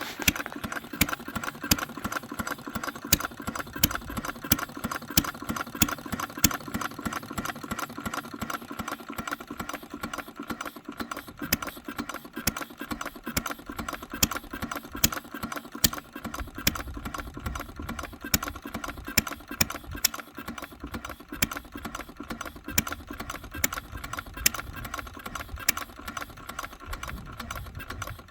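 Henry Ford 1893-type single-cylinder engine running steadily, with a rapid, even ticking and clicking over a steady hum.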